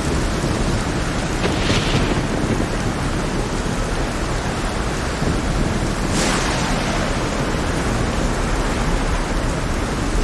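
Heavy rain over a stormy sea: a dense, steady hiss with a deep, continuous rumble beneath it. Two brief hissing surges rise out of it, about two and six seconds in.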